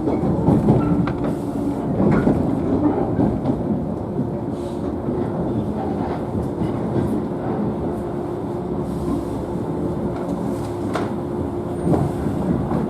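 Inside a JNR 113-series electric train motor car running on the rails: continuous rolling rumble of wheels and rails with a steady hum and a few short knocks, one about 11 seconds in.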